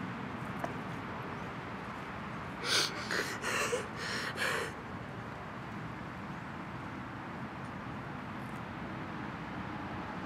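A person taking four or five sharp, gasping breaths in quick succession about three seconds in, over a steady hiss.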